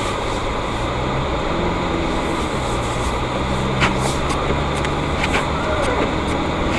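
A car driving: steady engine hum and road noise, the engine note shifting in pitch a few times, with a few brief clicks.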